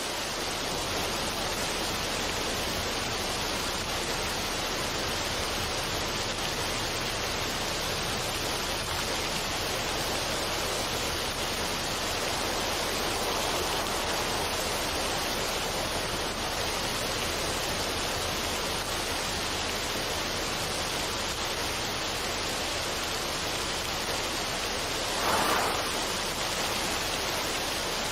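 Steady, even rushing noise like falling water, with no music or tones, and one brief louder swell near the end.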